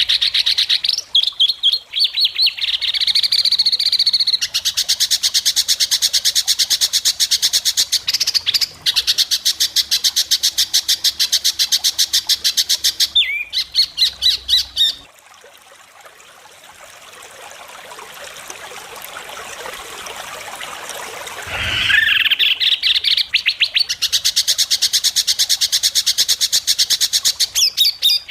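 White-rumped shama singing long runs of very rapid, sharp repeated notes (the 'besetan' mimicry prized in contest birds). The song breaks off about halfway for several seconds, when only a rising hiss is heard, then resumes with another rapid run.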